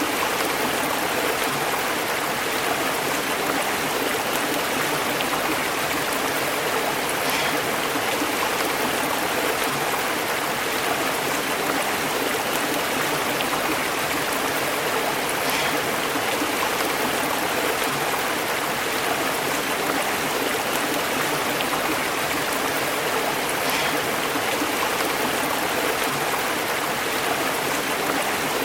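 Small stream burbling and bubbling over rocks: a steady rush of water, with a faint brief splash about every eight seconds.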